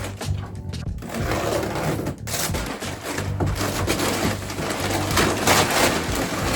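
Chicken feed being poured into a feeder: a steady rattling hiss of grain, with a short break about two seconds in.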